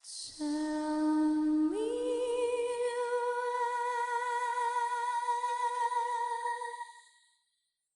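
A woman's unaccompanied voice sings a wordless, hummed opening: a low held note that slides up about two seconds in to a higher note, held with vibrato and fading out near the end.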